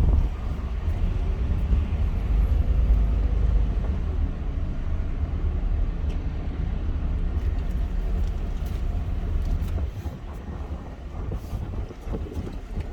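A car driving: a steady low rumble of engine and road noise, easing off a little near the end.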